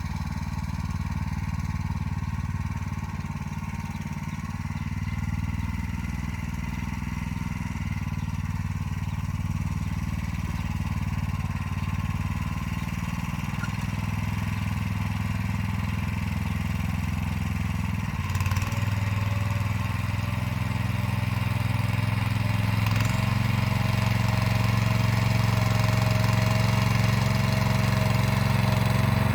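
Motor Sich walk-behind tractor engine running steadily while pulling an arrow-type hiller through potato rows. About two-thirds of the way through its sound falters briefly, then runs on a little louder.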